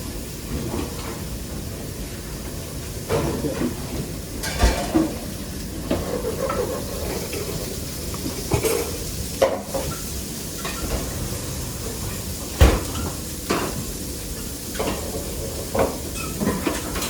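Kitchen work sounds: scattered clatter and knocks of pots, dishes and utensils, over a steady low background noise, with the two loudest knocks about five seconds in and about twelve and a half seconds in.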